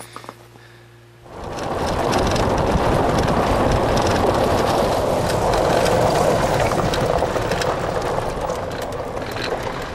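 A steady, loud rushing noise with scattered crackles, setting in about a second in after a quieter moment.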